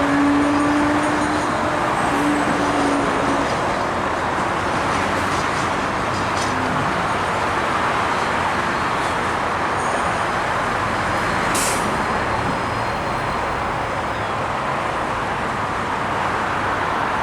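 Train passing close by at speed: a steady loud rush of wheels on rails, with two steady tones in the first three seconds and a single sharp click near the end.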